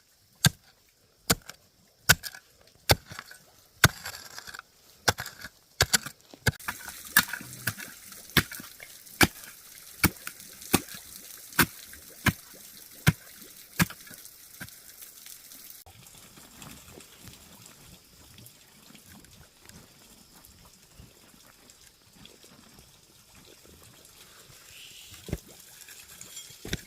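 Steady rhythmic chopping with a blade on wood, a sharp stroke a little more than once a second; about halfway through the strokes stop and only faint rustling remains.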